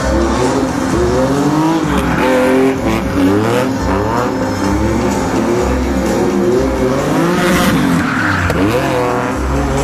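Car engine revving up and down over and over while its tyres squeal and skid as it spins doughnuts.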